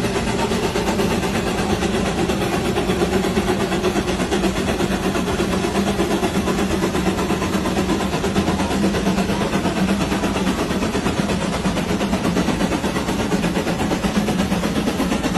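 Old Case steam traction engine running steadily under fire, with a continuous, even mechanical sound.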